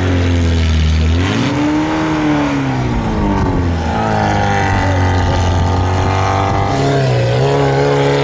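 Off-road 4x4 vehicle's engine revving hard under load, its pitch rising and falling several times, then jumping up about seven seconds in and holding a steady high rev.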